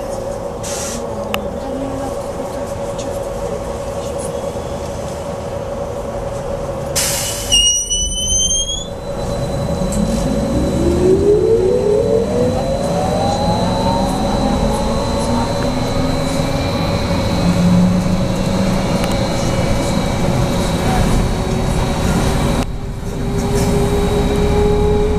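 BKM 43300D trolleybus running, with a steady electrical hum. About seven seconds in there is a short hiss with a rising chirp. From about nine seconds the traction drive's whine rises in pitch as the trolleybus picks up speed.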